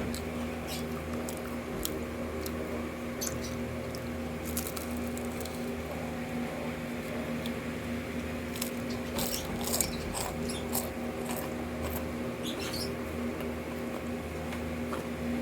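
Close-up mukbang eating sounds: chewing of deep-fried chicken intestine with scattered mouth clicks and smacks, busiest about nine to eleven seconds in, over a steady low hum.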